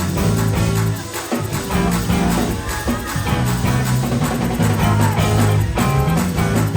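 Live gospel band playing an instrumental passage led by guitar over a steady bass and beat.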